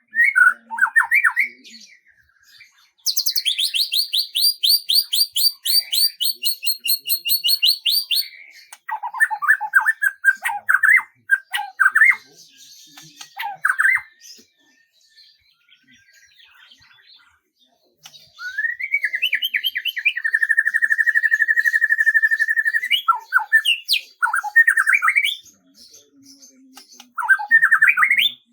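Songbird singing in separate phrases with short pauses: a fast, high trill of about five notes a second lasting about five seconds, a run of lower chirps, then a rising sweep into a long, even trill.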